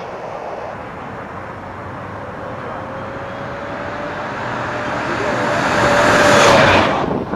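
Converted electric pickup truck driving with the windows down: steady tyre and road noise with a faint whine that rises slightly in pitch, no engine sound. Near the end the noise swells into a loud rush that cuts off suddenly.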